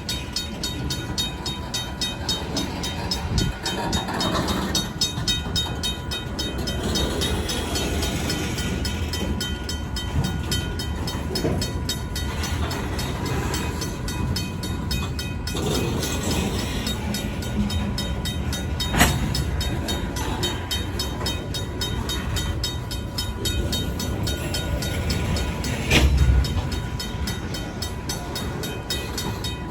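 Freight cars of a long train rolling over a grade crossing: steady wheel and rail noise with clanks, a sharp knock about two-thirds through and a heavier thump near the end. A RACO mechanical crossing bell rings rapidly and steadily behind it.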